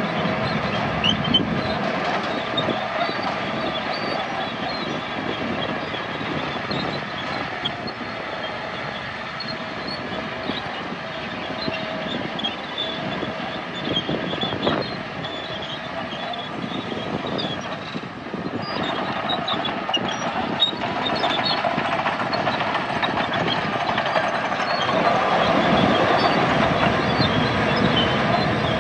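Crawler bulldozer's diesel engine running under load, its steel tracks clanking and squeaking. It grows louder in the last few seconds.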